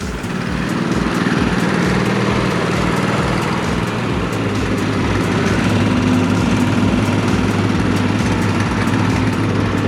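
Go-kart engine running steadily, growing louder over the first second or so and then holding an even hum.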